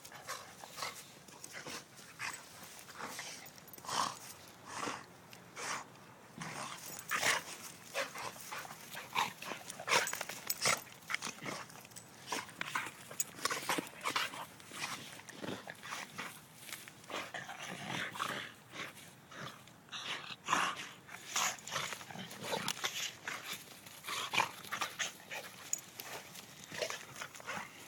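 Two dogs, one a pit bull, play-fighting: irregular scuffling and short dog vocalisations, many brief sharp sounds in quick succession.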